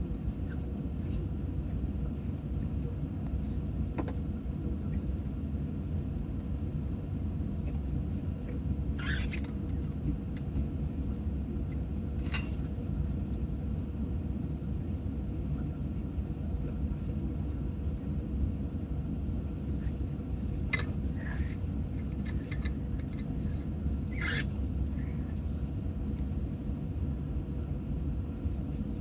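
Steady low rumble of a running vehicle, like an idling car heard from inside, with a few short clicks and scrapes from eating utensils.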